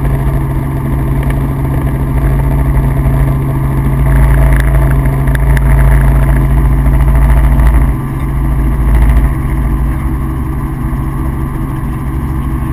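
Helicopter in flight: a steady engine and rotor drone with a strong low hum and rumble. It grows louder for a few seconds in the middle, then eases back.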